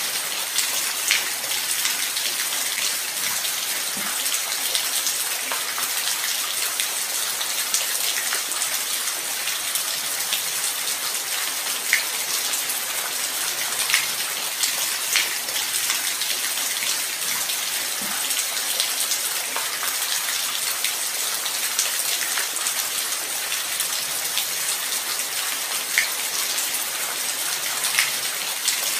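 Steady light rain: an even high hiss with scattered single drops striking close by every second or two.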